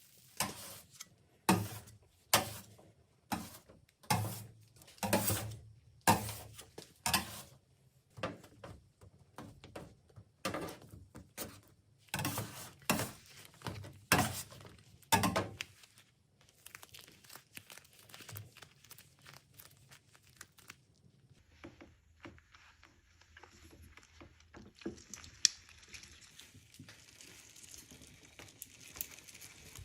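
A run of sharp cracks and clacks, roughly one a second, then quieter crinkling and rustling: hard candy being snapped and broken apart.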